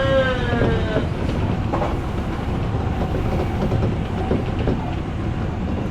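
Odakyu electric commuter train running along the track, heard from aboard: a steady low rumble with scattered clicks of the wheels over the rails. A brief tone falls slightly in pitch during the first second.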